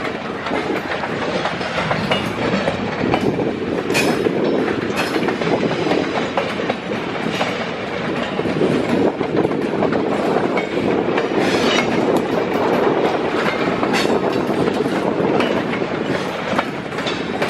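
Freight train cars rolling past with a steady rumble, broken now and then by sharp clicks of wheels passing over rail joints.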